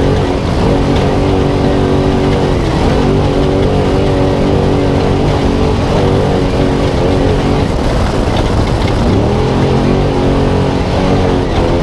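Spec Trophy Truck's V8 engine running hard at high revs, heard from inside the cab. Twice the revs drop and climb back up as the throttle is lifted and reapplied.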